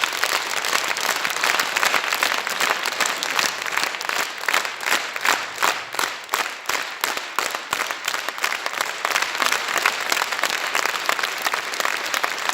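Audience applauding: many people clapping steadily and densely, the claps thinning and growing more separate around the middle before filling in again.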